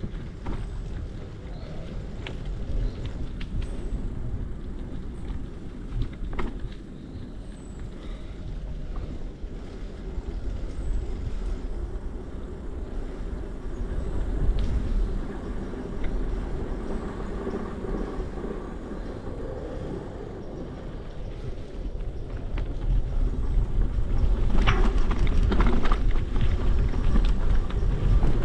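Bicycle ride on a trail, heard from a camera on the bike or rider: a steady low rumble of wind on the microphone and tyres rolling, with scattered clicks and rattles. It grows louder over the last few seconds.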